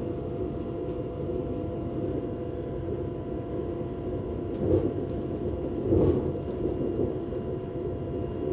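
Steady running rumble inside a high-speed train carriage, with a few faint steady tones over it. Two brief louder knocks come about five and six seconds in.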